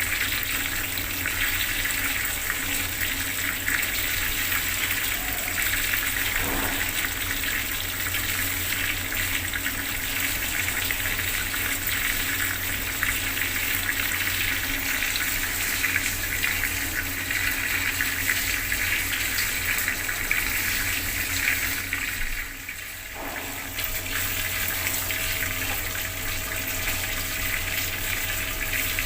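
Bathroom water tap running at a strong flow, the water splashing steadily. The flow dips briefly about three quarters of the way through.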